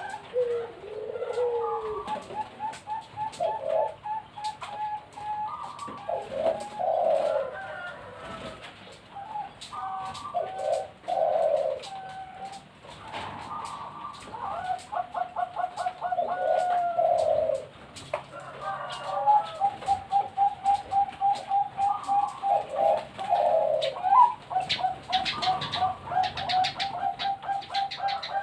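Perkutut Bangkok zebra doves cooing in repeated phrases, each a fast staccato run of short notes followed by lower, longer coos.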